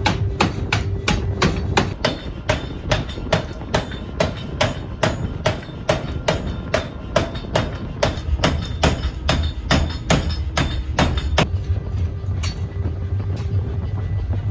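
Rapid, evenly spaced metal blows, about three or four a second, over a steady low machinery hum in an axle-making factory; the blows stop about eleven seconds in, leaving the hum.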